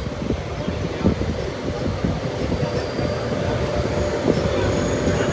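Express passenger train running, heard from inside a coach: a dense rumble of wheels on track with many irregular knocks and rattles, and a steady whine through it from just after the start.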